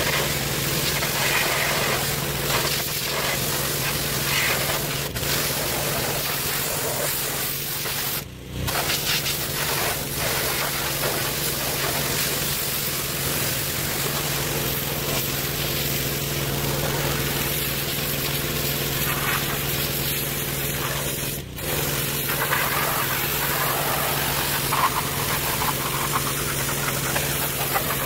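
Gas-engine pressure washer running steadily, its small engine's hum under the hiss of the water spray, with two brief dips in level.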